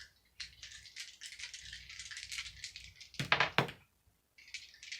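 Tarot cards being shuffled by hand: a fast run of crisp papery clicks, with two louder slaps about three seconds in.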